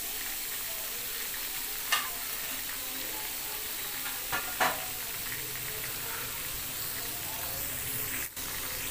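Mutton chops deep-frying in hot oil in a kadai, a steady sizzle, with a few short clicks about two seconds and four and a half seconds in.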